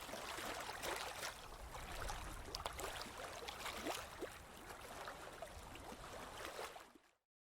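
Ocean waves washing onto a beach: a steady hiss of surf with many short splashes through it, fading out quickly to silence about seven seconds in.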